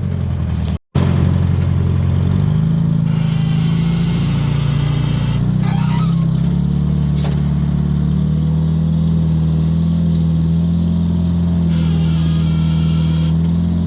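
1960s Detroit Diesel engine of a Michigan loader running steadily while the machine works dirt. Its speed sags at the start, picks up again about two seconds in and then holds, with a couple of short clanks near the middle.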